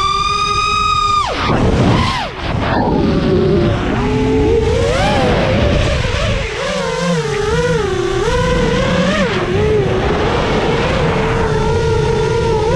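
FPV freestyle quadcopter's motors whining, the pitch rising and falling with the throttle. The whine drops sharply about a second in, wavers up and down through the middle, and holds steadier near the end.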